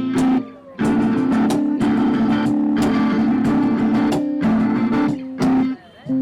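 Guitar music: strummed chords in a steady rhythm, dropping out briefly twice.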